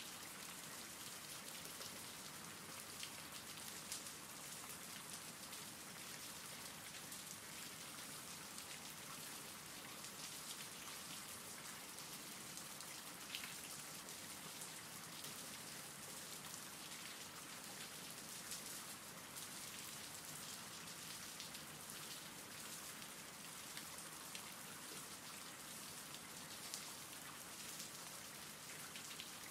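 Steady rain falling: a faint, even hiss with scattered small drop taps.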